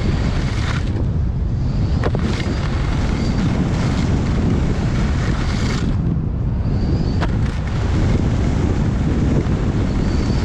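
Wind buffeting the microphone of a camera carried while skiing downhill, a heavy rumble with skis hissing over the snow and a few sharp clicks.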